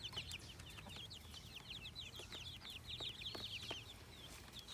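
Young chicks peeping busily, many short high-pitched falling peeps overlapping one another, with a few faint clicks among them.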